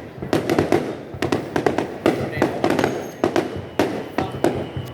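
Aerial fireworks going off in quick, irregular succession, about three sharp bangs a second, each with a short echoing tail.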